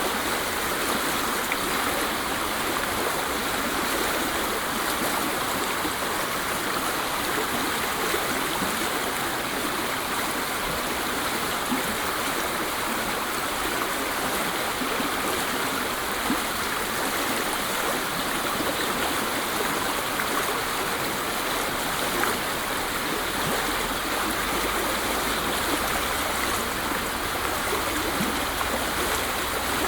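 Waterfall: water pouring and splashing in a steady, even rush with no change in level.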